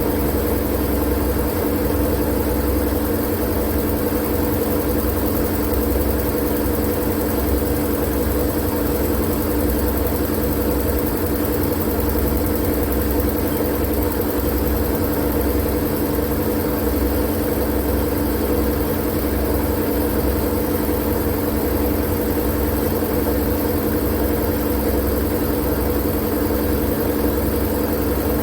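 Steady sleep-noise drone: a deep rumbling hum with a few held tones over an even hiss, machine-like and without change.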